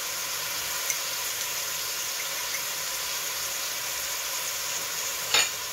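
Chicken pieces, onion and garlic frying in oil in a large aluminium pot: a steady sizzling hiss. A brief knock sounds near the end.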